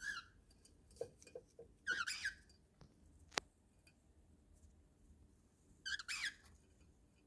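Cockatiel giving short, raspy chirps: one at the start, a longer one about two seconds in and another about six seconds in. A few soft knocks come about a second in, and a single sharp click at about three and a half seconds is the loudest sound.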